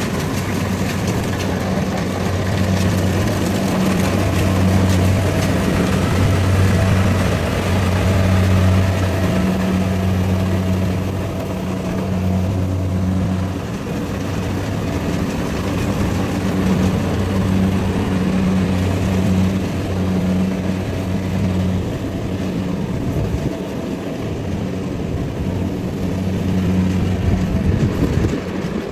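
Rice combine harvester running steadily, its engine a low hum that swells and eases, under a broad mechanical noise.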